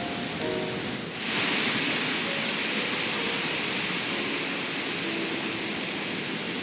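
Steady rushing of a flowing river, which gets louder about a second in, with faint background music.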